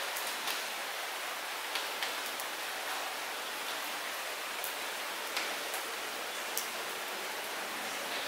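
Light rain falling steadily, a constant hiss with individual drops ticking sharply here and there on nearby surfaces.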